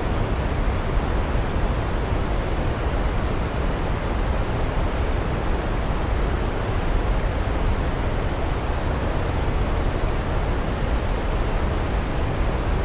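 A waterfall rushing: a steady, even noise, heaviest in the low end.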